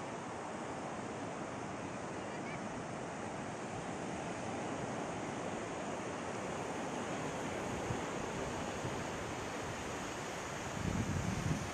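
Ocean surf washing steadily onto a beach, with a few low rumbles of wind on the microphone near the end.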